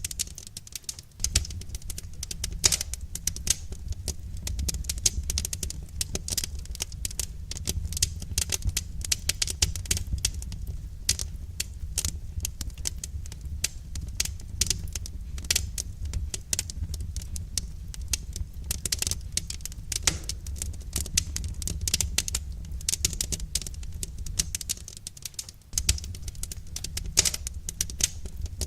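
Wood fire crackling: a dense, irregular run of small pops and snaps over a low, steady rumble.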